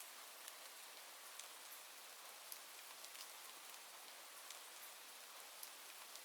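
Faint, steady rain hiss with scattered light ticks.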